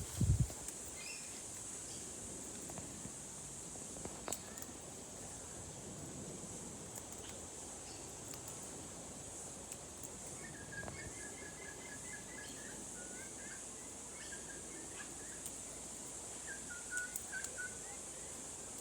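A bird calling in quick runs of short chirping notes, first about ten seconds in for a few seconds and again briefly near the end, over a steady high hiss. A single low thump just after the start is the loudest sound.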